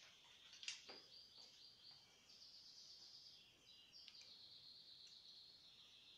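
Near silence with a faint bird singing in the background: a run of quick repeated high notes, then a warbling, high trill that runs on for several seconds. A couple of light clicks sound about a second in.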